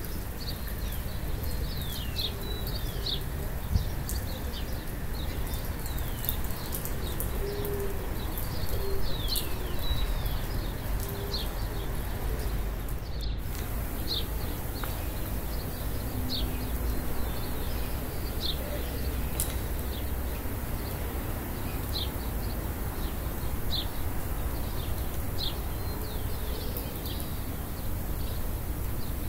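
Small birds chirping, short downward-sweeping calls repeated every second or so, over a steady low background rumble.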